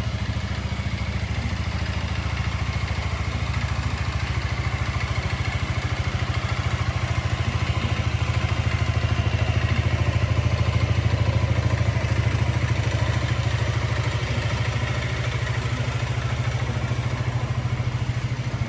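Honda ADV350 scooter's single-cylinder engine idling steadily.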